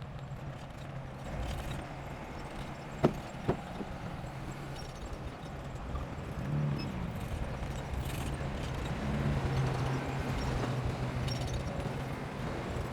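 Bulldozer engine running steadily, with two sharp knocks about half a second apart a few seconds in.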